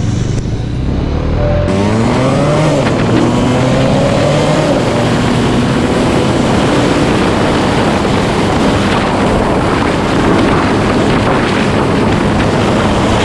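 Motorcycle engine accelerating: its pitch rises and drops several times as it shifts up through the gears, starting about two seconds in. It then settles into steady engine and wind-rush noise at road speed.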